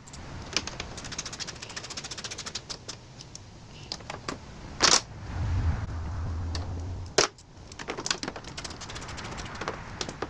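Rapid clicking of a ratchet wrench tightening the bolts that hold an electric cooling fan, in runs of quick clicks. Two sharp knocks about five and seven seconds in, with a short low hum between them.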